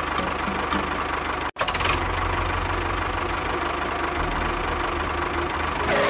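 Mini tractor engine running steadily, cut off abruptly for a moment about a second and a half in, then running on.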